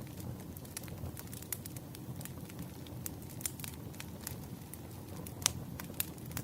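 Wood fire crackling: irregular sharp pops and snaps over a low steady rumble, with the loudest pop about five and a half seconds in.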